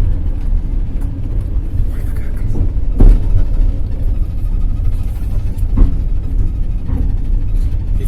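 Passenger train running at speed: a steady low rumble of the wheels on the track, with a few sharp knocks as the wheels cross rail joints, the loudest about three seconds in.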